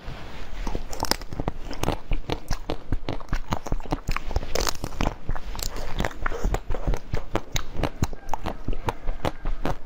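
Close-up biting and chewing of a white-coated strawberry, with a dense run of sharp, irregular crunches as the hard outer coating breaks.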